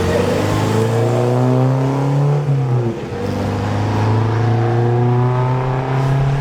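A sports car's engine accelerating hard, its pitch climbing steadily, dropping briefly about three seconds in as with a gear change, then climbing again.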